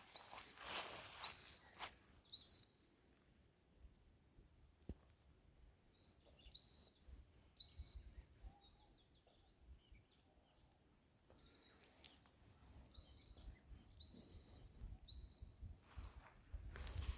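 A songbird singing three phrases of short, high, repeated chirping notes, each phrase a couple of seconds long with quiet pauses between them.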